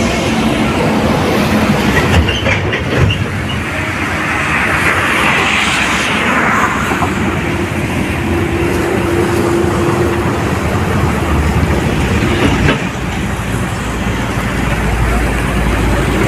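Steady, loud rumble and hiss of a moving vehicle on the road, with a hiss that swells and fades about four to six seconds in.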